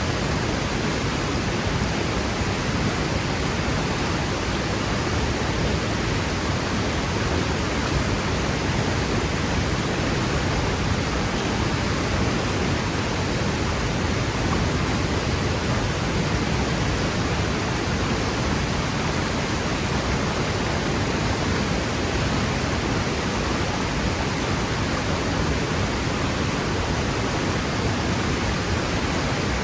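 Waterfall crashing into its pool: a steady, loud rush of falling water with no breaks or changes.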